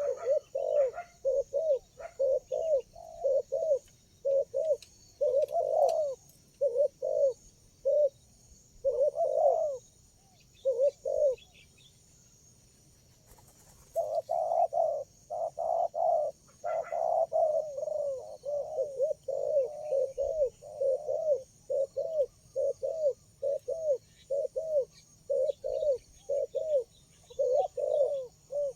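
Spotted doves cooing: short, rounded coo notes repeated in phrases. They stop for about two seconds near the middle, then resume densely, over a steady high-pitched hiss.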